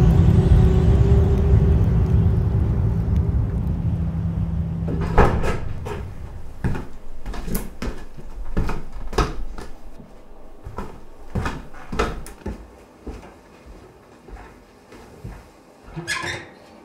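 A low, steady droning score fades out over the first five seconds. Then comes a string of irregular knocks, clicks and creaks as someone moves about a room and handles a wood-burning stove.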